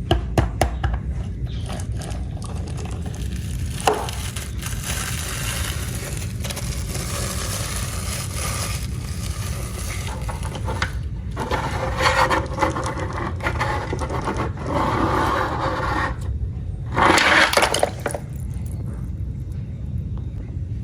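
Toy cars clattering and scraping on a hard surface, with sharp clicks near the start and louder bursts of rattling about twelve and seventeen seconds in, over a steady low rumble.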